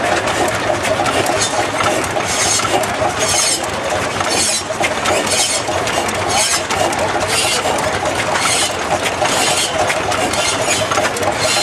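Hot-bulb tractor engines running at a rally, a dense steady mechanical din with a hiss that recurs about once a second.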